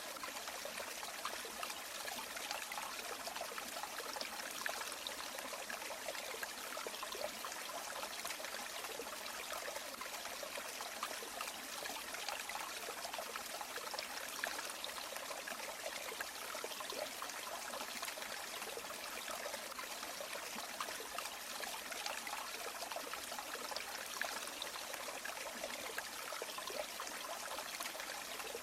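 River water flowing steadily: an even rush of running water with fine splashing detail and little deep rumble, unchanging throughout.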